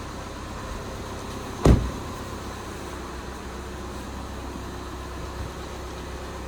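A single heavy thump about a second and a half in, over a steady low hum.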